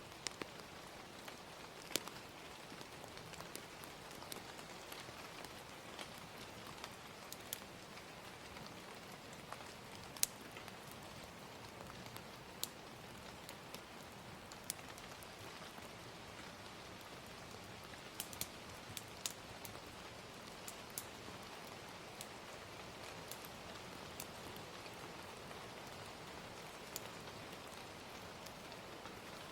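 Gentle rain falling in a steady hiss, with scattered sharp pops and crackles of a wood fire at irregular intervals.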